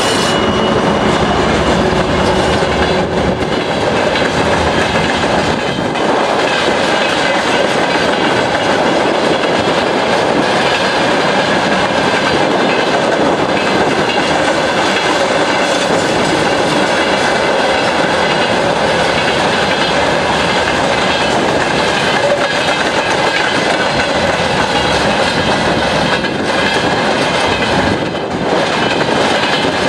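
A freight train of open-top gondola wagons rolls past at close range. The wheels clatter over the rail joints in a steady rush of rail noise. A diesel locomotive's engine hum fades in the first few seconds.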